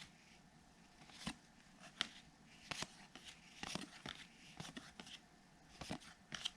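Baseball trading cards being handled and flipped through one at a time: faint, irregular clicks and rustles, roughly one a second.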